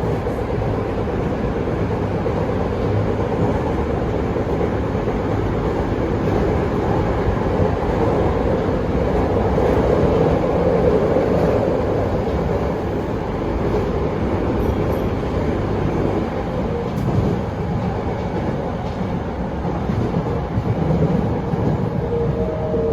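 Toei 5300 series train running at speed, heard from inside its motored lead car: steady rolling and rail noise with the traction motors' drone. Near the end a tone from the Mitsubishi GTO VVVF inverter comes in, sloping slightly down.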